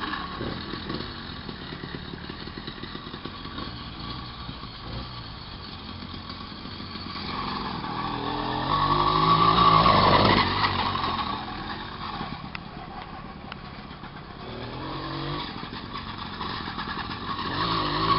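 Small single-cylinder engine of a vintage 66cc moped running, revving up to a loud peak about halfway through, falling back to a low putter, then revving again near the end.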